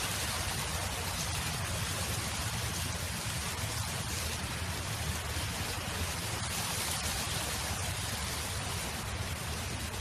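Steady wind blowing across a field, a continuous rushing hiss with a low rumble underneath.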